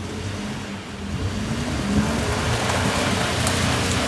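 Ford pickup truck engine running at low revs, its pitch wavering slightly, under a steady hiss that grows louder about a second in.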